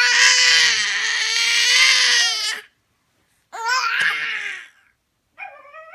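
Baby crying: one long, loud wail lasting about two and a half seconds, a short pause, then a second shorter cry, with a fainter whimpering cry near the end.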